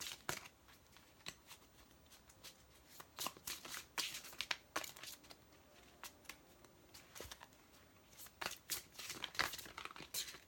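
A deck of tarot cards being shuffled by hand: bursts of quick papery flicks and swishes, with short pauses between, heaviest about three to five seconds in and again near the end.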